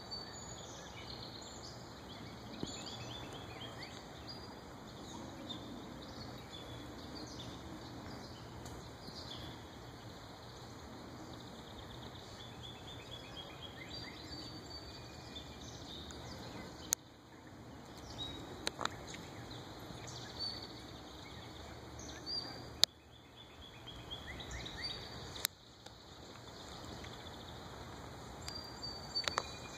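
Small songbirds chirping in short repeated phrases over a steady hiss of outdoor background noise, with a few sharp clicks in the second half.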